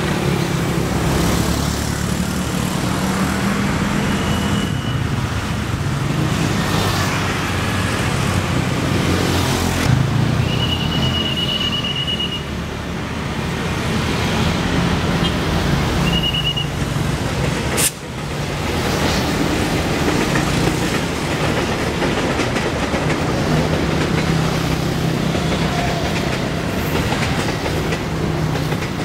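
Trains running past on the railway line: a steady rumble of wheels on rails throughout. Three short, high-pitched squeals come in the first half. About two-thirds through, the sound breaks off abruptly and is replaced by a passing train of passenger coaches.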